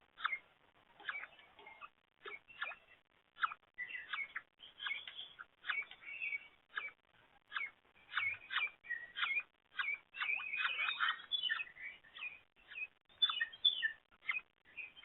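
Several small songbirds chirping and calling in quick, overlapping short notes, busiest about two-thirds of the way through.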